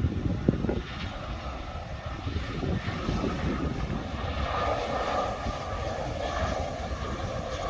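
Airbus A319 airliner landing, its jet engines running with a steady rumble that swells about halfway through.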